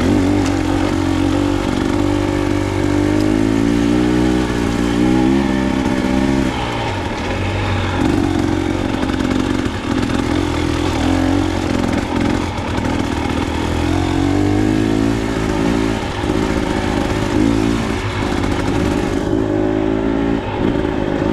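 Dirt bike engine running as it is ridden, its pitch rising and falling repeatedly with the throttle.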